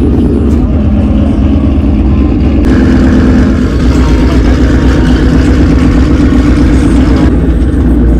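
A car engine running loudly close by. Its sound grows fuller about two and a half seconds in and eases again near the end.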